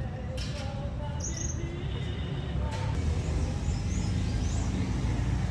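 Steady low rumble of street traffic, with a few short high bird chirps about a second in and again around four seconds in.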